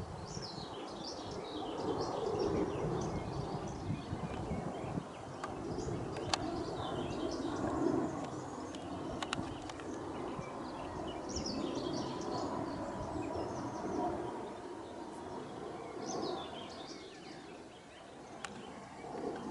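A jet airliner passing overhead, its low rushing drone swelling and then slowly fading away, while small birds chirp and twitter.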